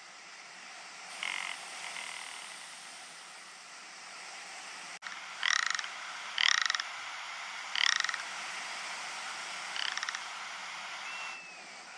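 Ptarmigan giving short rattling calls: a faint one about a second in, then four louder ones in the second half, each under half a second long.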